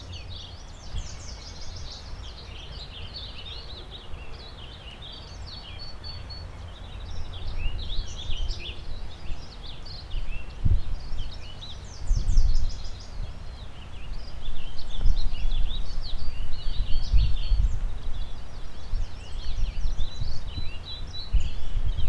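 A chorus of several songbirds chirping and trilling, over low, gusty wind buffeting the microphone that picks up about a third of the way in and is strongest in the second half.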